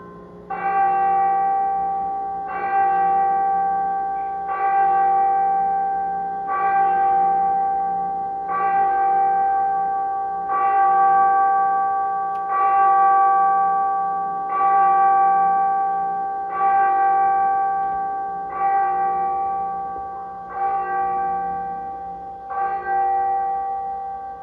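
A large church bell tolling steadily, struck about once every two seconds, each stroke ringing on with a clear hum of overtones and fading until the next.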